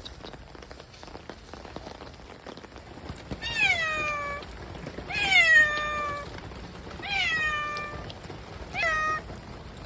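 A cat meows four times, each call sliding down in pitch and the last one short, over a steady patter of rain.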